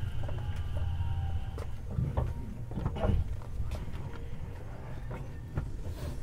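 Tobu 50090 series train standing at the platform: a steady hum of on-board equipment stops about a second and a half in, leaving scattered knocks and clicks.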